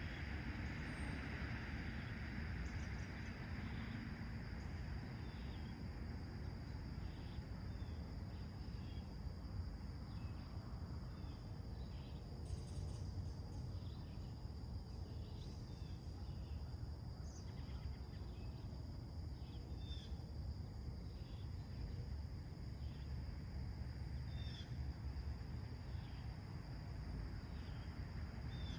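Songbirds give short, scattered chirps over a steady low rumble and a steady high insect drone. A hiss in the background fades away over the first few seconds.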